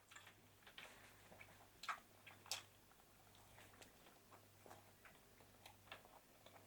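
Faint, irregular clicks and taps, two slightly louder ones a couple of seconds in, over a faint steady low hum.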